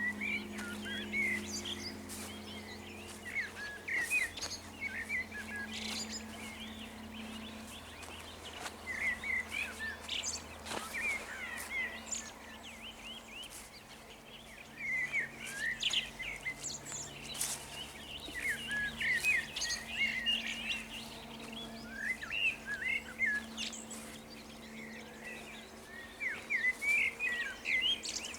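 Dawn chorus of songbirds in open meadow, with bursts of quick chirping phrases every few seconds and a faint steady low hum underneath.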